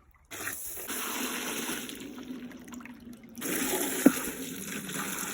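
Water running and splashing into a container, cutting off briefly about three seconds in, then starting again, with a sharp knock soon after.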